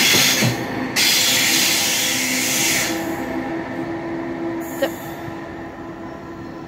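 Double-deck electric passenger train rushing past at speed, a loud rushing rumble that drops away about three seconds in as the last car clears. A steady electric hum from the rail traffic remains after it, with one sharp click near the end.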